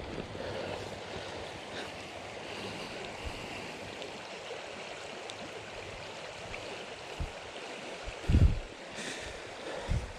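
Steady rush of a mountain trout stream's flowing water, with a couple of dull low thumps near the end.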